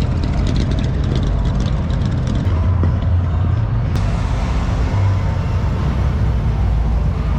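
A car engine running at low speed, a steady low rumble, with a single brief click about four seconds in.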